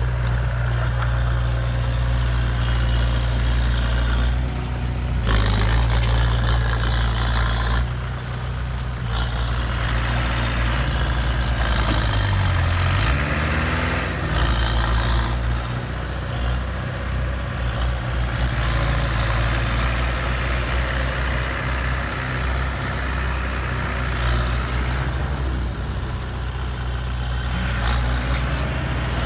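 Truck engine running steadily, revving up and back down briefly about halfway through.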